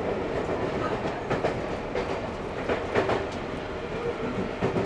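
Seibu 6000 series commuter train heard from inside the car while running, a steady rumble of wheels and motors. Sharp clicks of the wheels over rail joints come about five times, two of them close together near the middle.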